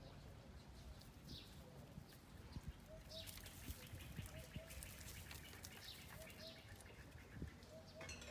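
Faint outdoor ambience: a bird repeats a short two-note call every second or two, with a few higher chirps and some light knocks.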